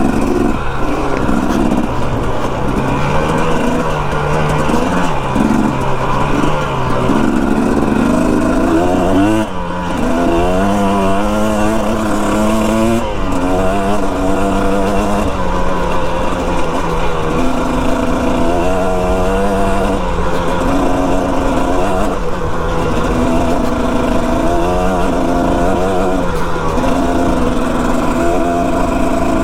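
Dirt bike engine running under way, revving up and down and shifting through gears, its pitch stepping up and dropping every second or two.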